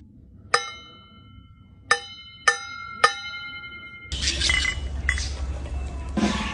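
Four sharp clinks of struck glass or metal, each ringing on briefly, a second or more apart at first and then closer together. About four seconds in, a louder, noisy clatter with a low rumble takes over.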